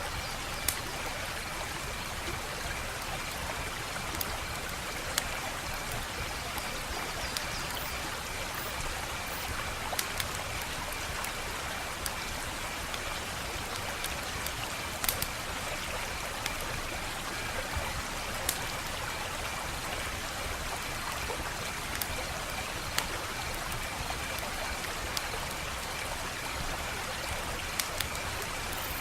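Wood fire burning with a steady hiss, broken by sharp crackles and pops from the burning logs at irregular intervals, about a dozen in all.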